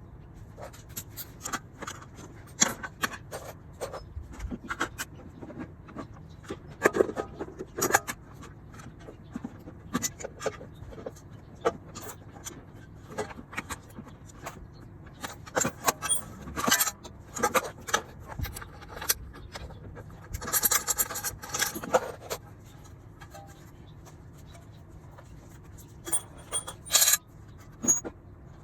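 Metal hand tools and parts clinking, clanking and scraping in irregular sharp knocks, with a longer scraping rattle about two-thirds of the way through. These are the sounds of work on a scooter's belt-drive (CVT) case.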